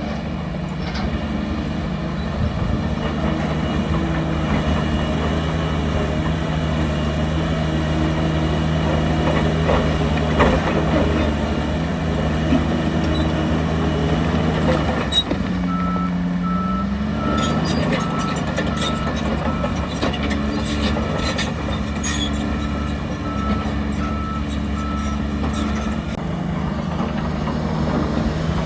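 Diesel engines of heavy earthmoving machines running, one revving up a little past the middle, while a reversing alarm beeps steadily at about one beep a second for some ten seconds. A few sharp knocks are heard during the beeping.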